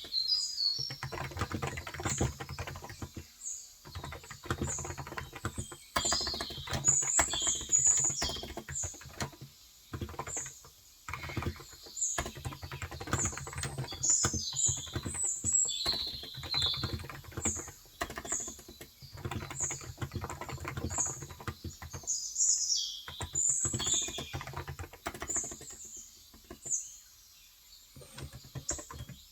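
Typing on a Cox Endeavour tenkeyless electrostatic capacitive keyboard with 35 g switches, quick runs of soft keystrokes broken by short pauses, with a longer pause near the end. Small birds chirp repeatedly in short high notes throughout, recorded on a phone's microphone.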